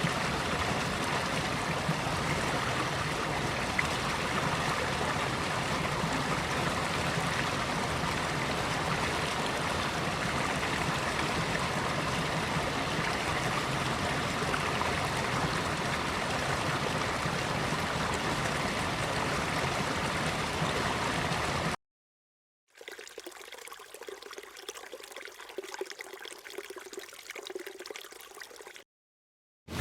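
Running water of a stream flowing steadily, which cuts off suddenly about three-quarters of the way through. After a moment of silence, a much quieter trickle of water runs for about six seconds and stops just before the end.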